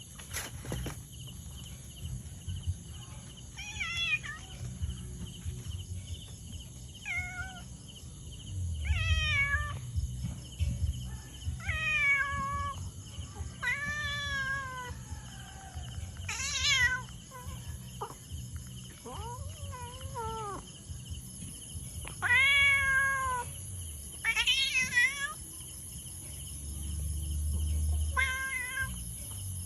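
A cat meowing repeatedly: about ten separate meows a couple of seconds apart, some wavering in pitch.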